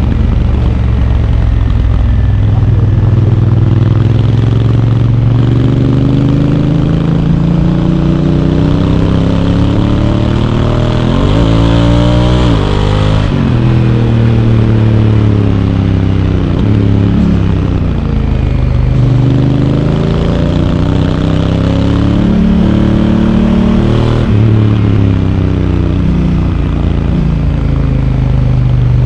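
Honda Africa Twin DCT motorcycle's parallel-twin engine under way, its pitch rising and falling with the throttle. Near the middle the revs climb steeply and then drop suddenly as the dual-clutch gearbox changes up.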